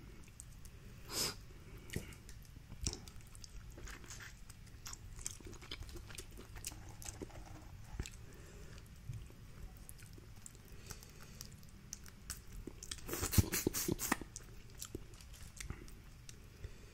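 Close-miked chewing and biting of boiled seafood, with small wet mouth clicks. About thirteen seconds in comes a louder run of crackling clicks lasting about a second.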